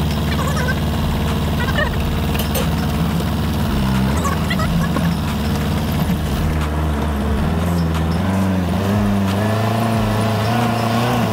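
Heavy vehicle engine running steadily. About two thirds of the way through, its pitch starts to rise and fall as the revs change under load.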